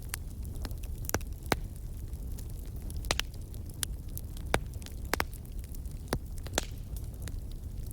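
Wood fire of burning logs in a fireplace crackling, with about ten irregular sharp pops over a steady low rumble of the flames.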